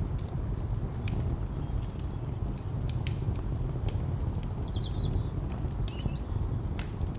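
Fire crackling in irregular sharp pops over a steady low rumble of distant traffic, with a couple of faint high chirps near the end.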